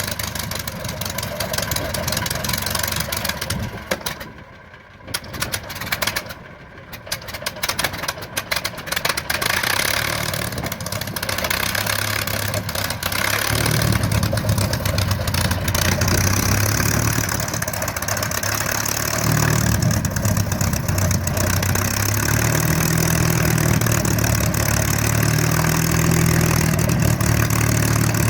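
P-51 Mustang's V12 aero engine during start-up: it runs unevenly at first, with a brief sag in loudness about five seconds in, then settles into a louder, steadier low rumble about halfway through as it catches and warms toward idle.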